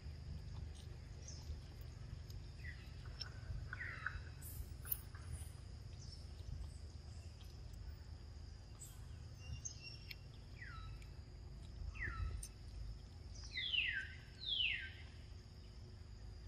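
Outdoor ambience with wild birds calling: scattered short chirps, then four quick falling whistles in the last few seconds, the loudest of them near the end. Under them run a steady high-pitched hum and a low rumble.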